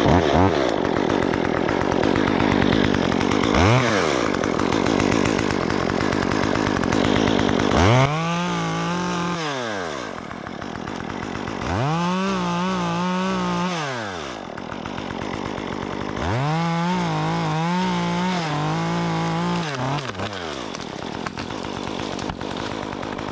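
Stihl MS 194T two-stroke top-handle chainsaw with a 1/4-inch Ripsaw conversion chain, running steadily for several seconds. It then revs up three times, holds at high speed for a couple of seconds each time and drops back, and settles to a lower idle near the end.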